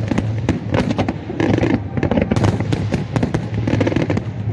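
Fireworks display: a rapid, dense run of bangs and crackles, several a second, over a steady low rumble.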